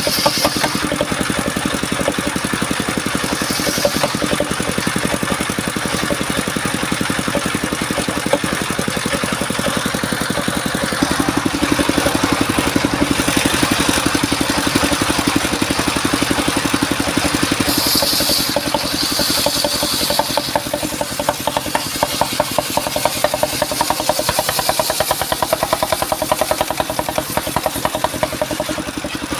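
Engine of a mobile circular sawmill running steadily with a fast, even pulse. It grows a little louder about eleven seconds in and eases slightly after twenty seconds.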